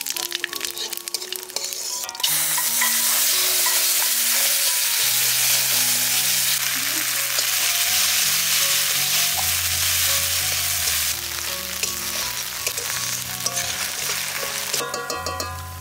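Spice paste frying in hot oil in a metal kadai: light crackling of the oil and bay leaves at first, then about two seconds in a sudden loud sizzle as the paste hits the oil, holding steady while it is stirred with a spatula and easing a little near the end.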